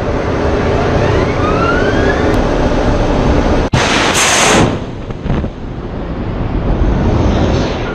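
Weapons fire in a ship-sinking exercise: a heavy, continuous rumble. It is cut off abruptly a little under four seconds in, and a brief, loud hissing blast follows.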